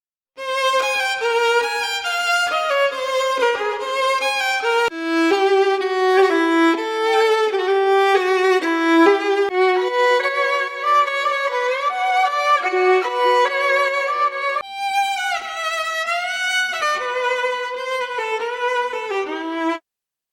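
A recorded violin phrase: a solo bowed melody with vibrato and sliding notes, with no drums under it. It starts about half a second in and cuts off just before the end.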